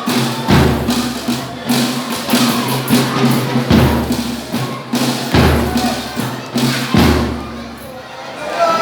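Folia de Reis folk band playing: a drum struck on a slow, even beat, about once every second and a half, under tambourine-like jingling and other instruments. The music thins a little near the end.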